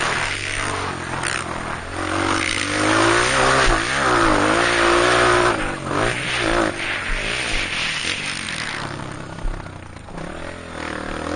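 Honda CRF230 single-cylinder four-stroke dirt bike engine revving up and down as it is ridden around a motocross track, loudest in the middle and easing off near the end, with rushing noise over it.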